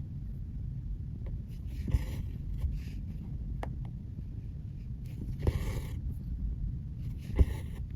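Hand cross-stitching: a needle ticking through the fabric and embroidery floss drawn through it in a short rasping swish, three times, about every two seconds, over a steady low background hum.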